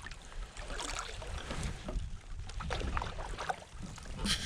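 Canoe paddles dipping and pulling through lake water, with a splash about every second, over wind rumbling on the microphone.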